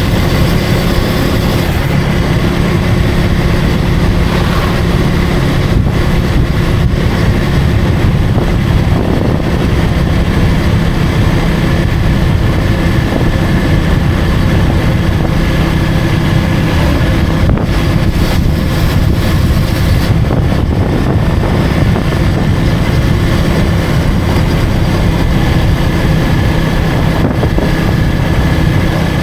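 Motorcycle engine running steadily while riding through traffic, a constant low hum with wind noise on the microphone.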